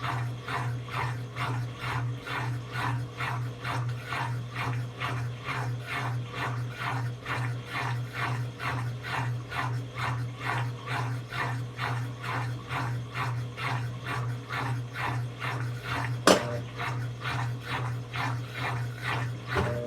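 Brastemp 17 kg top-loading washing machine running mid-cycle: a steady motor hum under an even swishing pulse, about two to three a second. One sharp click comes about 16 seconds in.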